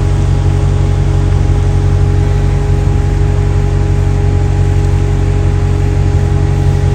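Steady engine and road drone heard from inside the cabin of a Maserati GranTurismo cruising at an even speed, with no revving or gear changes.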